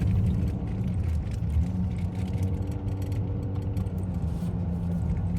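A car on the move, a steady low rumble of engine and road noise.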